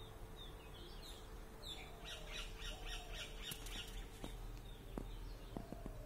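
Small birds chirping, with a quick run of repeated chirps about six or seven a second starting about two seconds in and lasting nearly two seconds.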